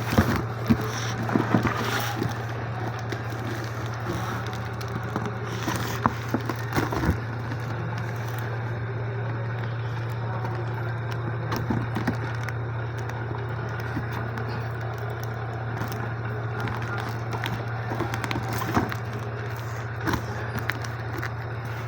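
Irregular clicks, knocks and rustling from cosmetic rack parts and their packaging being handled, busiest in the first few seconds, over a steady low hum.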